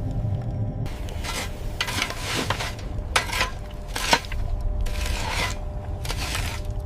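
A series of scraping, rubbing strokes, roughly one or two a second, with two sharp clinks in the middle, over a steady low rumble.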